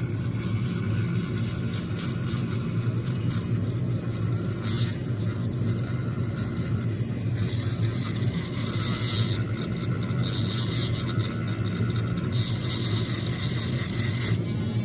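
Power tool running steadily while polishing the inside of a tractor engine part, its motor giving a constant low hum. A higher, hissy contact noise comes and goes several times in the second half as the tool works against the metal.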